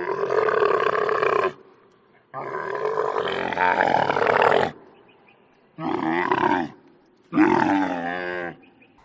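An animal calling four times, each a long, loud, pitched call; the first two are the longest.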